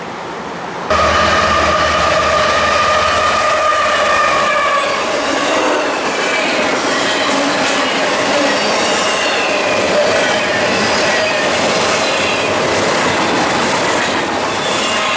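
Freight train passing close by, starting suddenly about a second in: a deep engine hum for the first few seconds, then wheels clicking over the rail joints with steady squealing.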